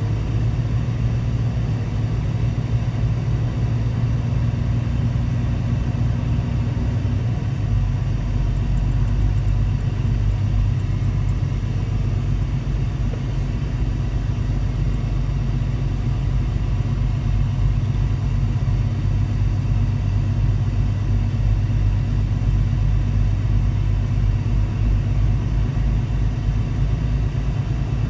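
Semi truck's diesel engine running steadily while driving, a continuous low rumble.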